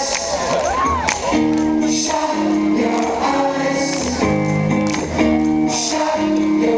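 A rock band playing live, with a singing voice over sustained chords.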